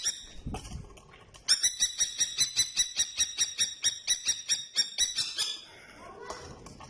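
Common kestrel giving its rapid, shrill kee-kee-kee call, about six notes a second, starting about a second and a half in and stopping about a second before the end.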